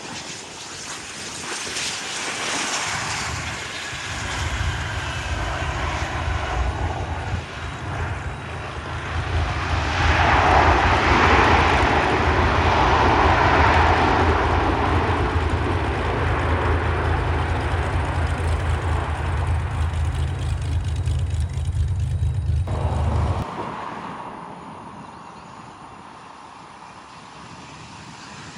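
Private jet's turbofan engines passing by. A falling whine comes in the first few seconds, then the jet noise swells to its loudest about ten to fourteen seconds in and fades. A heavy low rumble under it stops abruptly about 23 seconds in.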